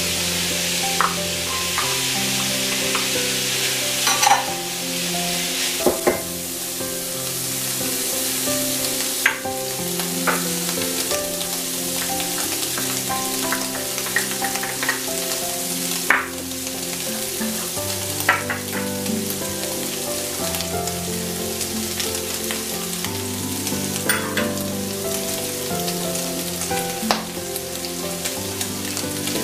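Ground beef, onions and peppers sizzling in a frying pan, with a wooden spoon scraping and knocking against the pan every few seconds as the mixture is stirred and spices are tipped in. Soft background music with held notes plays underneath.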